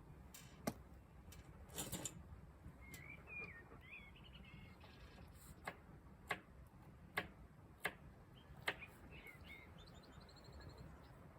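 Wood fire crackling faintly, with sharp pops every second or so. A small bird chirps twice, once a few seconds in and again near the end.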